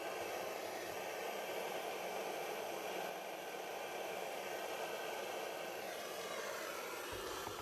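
Blow lamp flame burning steadily, a continuous hiss, heating a flexi pipe and tube joint for silver soldering. Its sound shifts slightly near the end.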